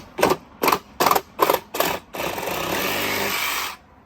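Reciprocating saw (Sawzall) cutting. It goes in short, regular pulses about two or three a second, then runs steadily for nearly two seconds and stops suddenly near the end.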